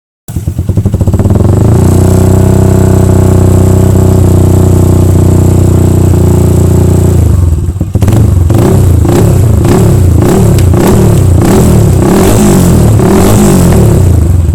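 Yamaha Scorpio Z's single-cylinder four-stroke engine running loud through an HNR H3 Long racing exhaust: a steady idle for about seven seconds, then repeated throttle blips, revving up and dropping back about once a second, until the sound cuts off abruptly.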